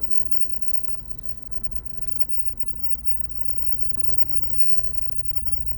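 Steady low rumble of riding down a rocky trail, growing slightly louder toward the end.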